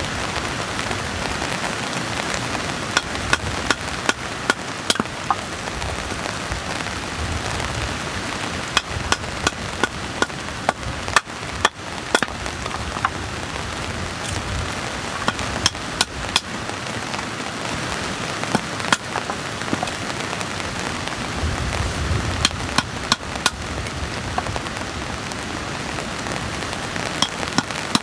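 Heavy rain pattering on a tent's fabric, a steady dense hiss, with irregular sharp knocks and clicks scattered throughout.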